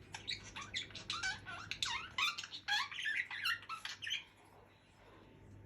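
Budgerigar chattering: a fast run of short chirps and squeaky warbled notes for about four seconds.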